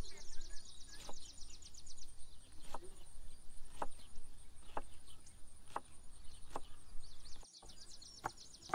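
Birds chirping in quick high trills at the start and again near the end. Through the middle there is a sharp knock or click about once a second.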